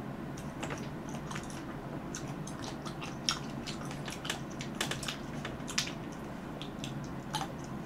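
Fresh cherries being bitten and chewed close to the microphone: a run of short, sharp mouth clicks and smacks.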